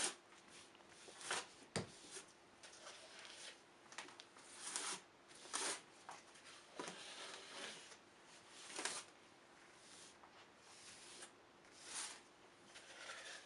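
Gloved hand smearing gypsum putty in a thin layer over a cardboard surface: faint, irregular swishes and scrapes, with one sharp click about two seconds in.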